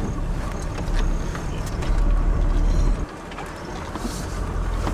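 4WD vehicle moving slowly on a sand track: a steady low engine and tyre rumble with scattered small knocks. The rumble drops away sharply about three seconds in, then builds back.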